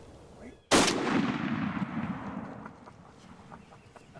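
A single shot from a Benelli shotgun, fired at a turkey, about three-quarters of a second in. The report then fades away over about two seconds.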